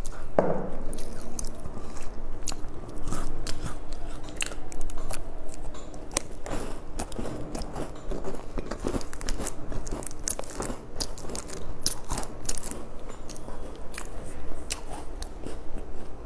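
Close-miked chewing and crunching of crisp food, with many short, sharp crackling crunches throughout.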